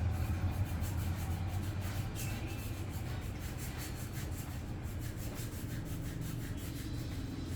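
A hand tool rubbing and scraping against a toenail: soft, irregular scratchy strokes over a steady low hum.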